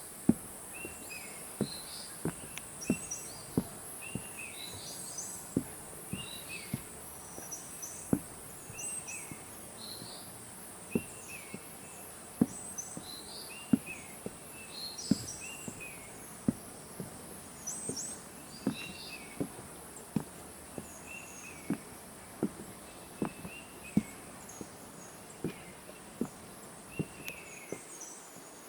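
Footsteps at a steady walking pace on a forest path, about one step every three-quarters of a second. Birds chirp over them again and again in short repeated notes, above a steady high-pitched insect drone.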